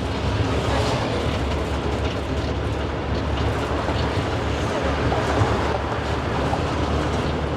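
Steady engine drone with road and wind noise, heard riding in the open back of a Thai songthaew, a red pickup-truck shared taxi.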